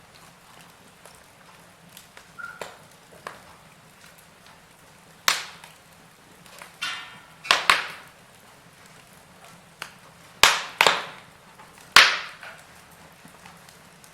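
Wood fire crackling, with sharp, irregular pops and snaps a second or two apart over a low steady hiss.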